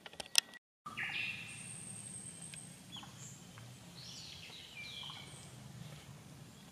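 Wild birds calling in a forest: faint high chirps and short falling calls, over a low steady background noise. A few clicks and a brief gap come at the very start.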